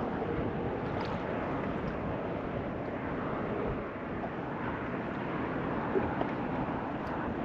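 Steady wind noise buffeting the microphone, an even rushing with no engine tone in it.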